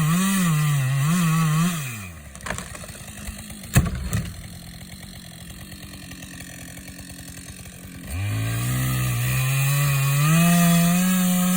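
Stihl two-stroke chainsaw running at high revs with the pitch wavering, dropping to idle about two seconds in, then revving back up to full speed near the end. While it idles there is a single loud sharp knock.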